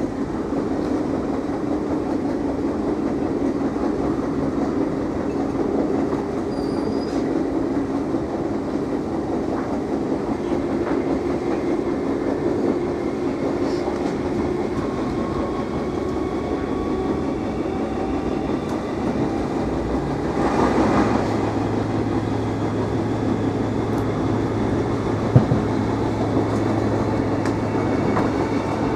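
Class 313 electric multiple unit running at speed, heard from inside the carriage: a steady rumble of wheels on the track. About two-thirds of the way through there is a brief rush of louder noise, then a low hum comes in and stays, and a single sharp click follows a few seconds later.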